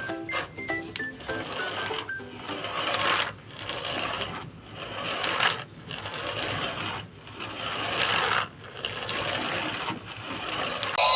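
A battery-powered toy plays a quick electronic jingle of short beeping notes. Then comes a steady small-motor whirr that rises and drops out in pulses about every second and a half.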